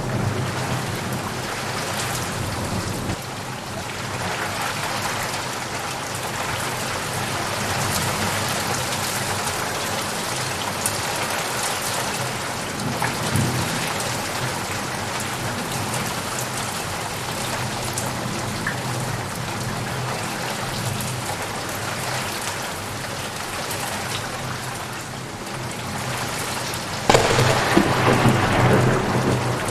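Steady rain falling, with low rumbling thunder underneath. Near the end the storm suddenly grows louder in a burst of thunder and heavier rain.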